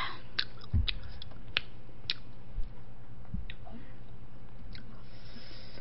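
Close-miked eating sounds: chewing with several sharp wet mouth clicks and a couple of soft low thumps, over a steady low hum.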